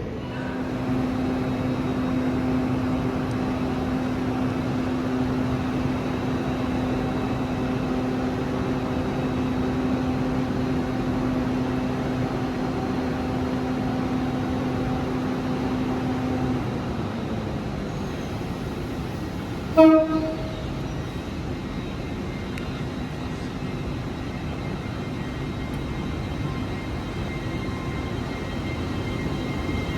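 Train running with a steady hum whose held tone fades away about 16 seconds in, then a single short toot of a train horn about 20 seconds in, the loudest sound.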